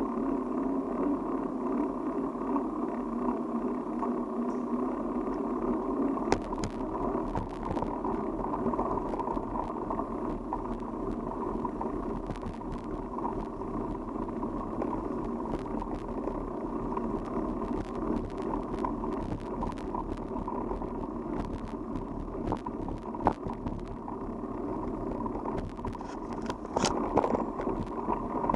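Bicycle being ridden, heard from the bike: steady tyre and wind noise with frequent small clicks and rattles, a cluster of louder ones near the end.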